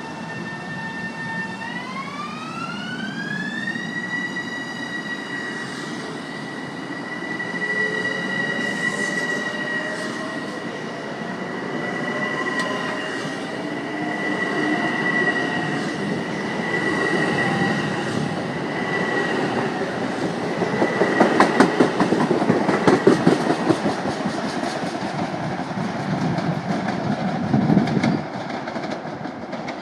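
Long Island Rail Road electric trains running through the station: a high motor whine climbs in pitch over about two seconds and then holds steady, while a second, lower whine rises slowly. Over the rolling rumble, wheels click rapidly over rail joints about two-thirds of the way through.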